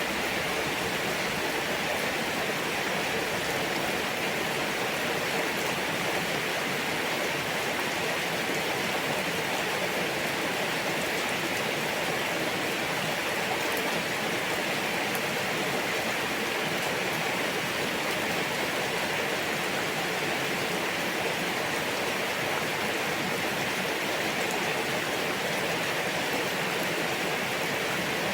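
Steady rain falling, an even hiss that holds at one level throughout, with a few faint ticks of single drops.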